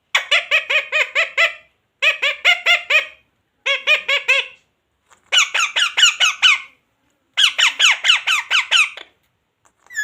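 A pet green parrot calling in five bursts of rapid, evenly repeated squawking notes, several notes a second in each burst.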